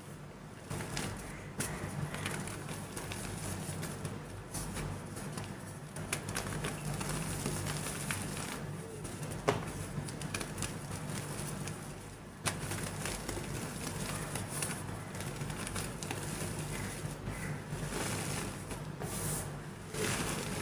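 Soft gym chalk being crumbled and crushed: continuous fine crackling and crunching, with a few sharper cracks.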